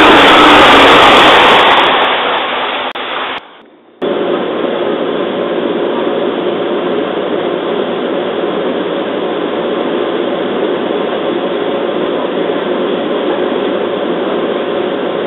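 Loud train noise at a station platform as a train passes, fading out about three seconds in. After a short break comes the steady, even hum inside a JR East 211 series electric train car standing at the station.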